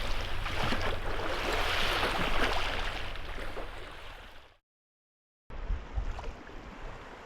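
Lake water splashing and sloshing at the shoreline, fading out about four and a half seconds in. After a short silent gap, a quieter stretch of lapping water with low gusts of wind on the microphone.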